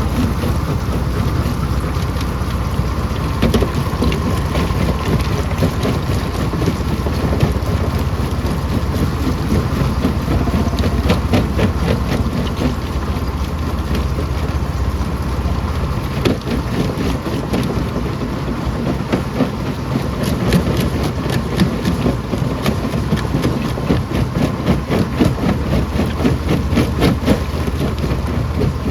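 Stone crusher running with a steady heavy rumble, over which rocks knock and crack again and again, more thickly in the second half.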